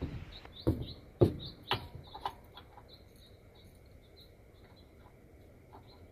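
Five sharp knocks about half a second apart, fading out after the first two seconds, with small birds chirping in the background.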